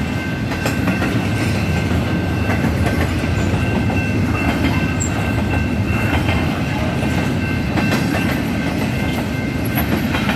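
Double-stack intermodal freight train rolling past: a steady rumble of steel wheels on the rails with clickety-clack, and a faint steady high whine over it.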